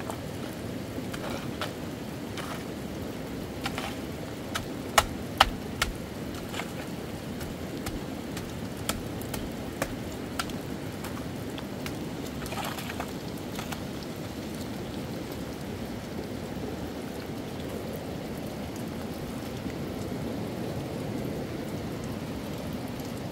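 Steady rain, with scattered sharp taps of drops striking a surface. A few louder taps come about five to six seconds in.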